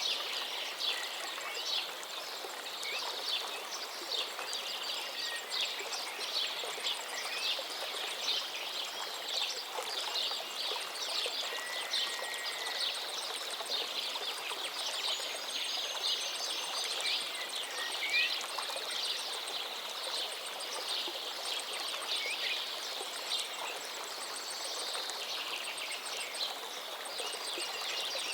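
River stream water running steadily, with a few short bird calls over it near the middle.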